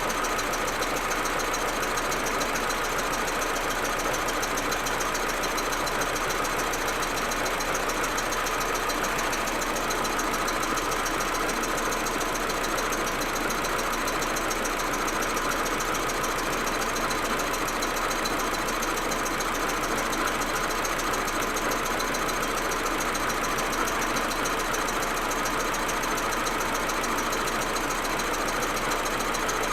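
Audi A4 1.8T's turbocharged four-cylinder engine idling steadily. This is the rough, stuttering idle with misfiring that the owner gets when the engine is cold, with no fault codes stored.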